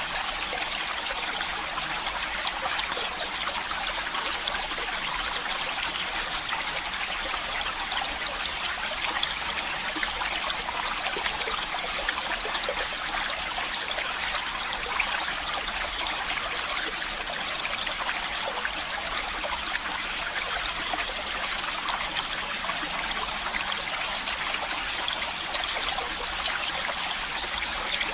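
Stream water running and trickling steadily, a constant rushing hiss with fine splashing detail.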